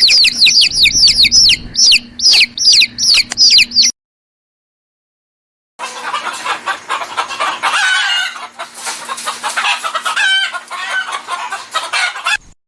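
A fast run of high, downward-sliding bird chirps, about five a second, stops abruptly. After almost two seconds of silence, chickens cluck for several seconds, then cut off.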